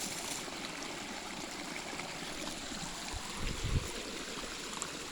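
Creek water running steadily in a fast-flowing stream. A dull low thump comes about three and a half seconds in.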